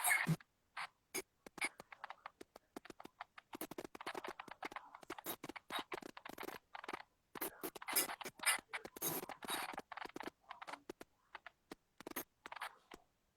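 Irregular scratching and rustling noises with many scattered sharp clicks.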